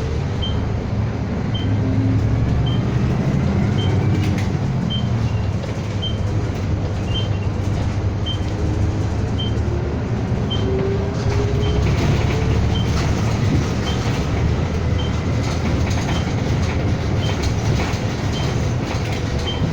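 City bus driving, heard from inside the cabin: steady engine and road rumble, with a faint drivetrain whine that rises in pitch about halfway through. A high-pitched turn-signal tick repeats about twice a second, typical of a bus signalling as it pulls in toward a stop.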